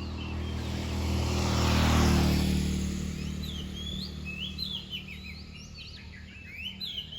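A vehicle passes, loudest about two seconds in, over a steady low hum. From about four seconds in, an oriental magpie-robin sings quick whistled phrases that sweep up and down, growing busier toward the end.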